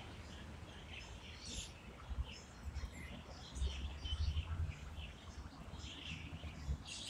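Birds chirping in short, scattered calls among roadside trees, over a low uneven rumble that is loudest around the middle.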